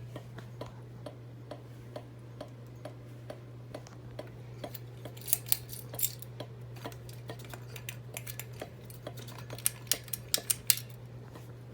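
Harbor Breeze Armitage II ceiling fan running with a steady motor hum and a regular tick about twice a second, a noise it keeps making the whole time it runs. A few louder clicks come through around the middle and near the end.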